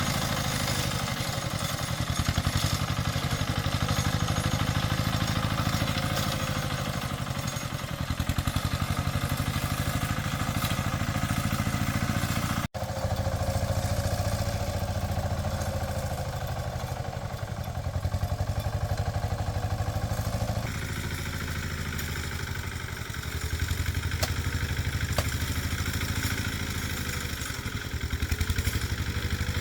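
A small engine running steadily, its pitch wavering slightly up and down. The sound drops out suddenly for an instant about 13 seconds in, and its tone changes abruptly at about 21 seconds.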